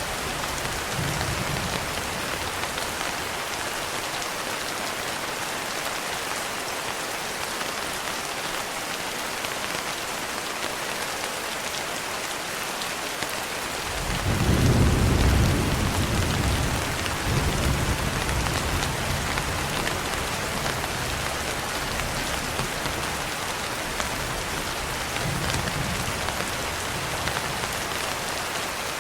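Steady rain on a window, with a roll of thunder about halfway through that rumbles for a few seconds and fades away slowly. Fainter low rumbles of thunder come near the start and near the end.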